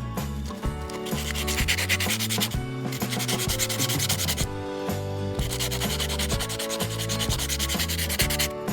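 Hand sanding: rapid back-and-forth strokes of abrasive rubbing on a workpiece in three bouts, the last and longest ending near the end, over background music.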